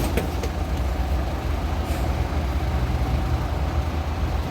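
Heavy diesel truck engine running steadily with a deep rumble, and a few light metallic clicks in the first half-second and again about two seconds in.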